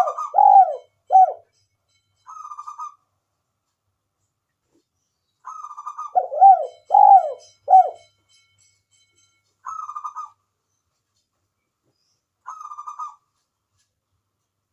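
Spotted dove (tekukur) cooing. Two full phrases, at the start and about six seconds in, each a short rattly note followed by three deep, rounded coos. Fainter rattly notes come on their own in between.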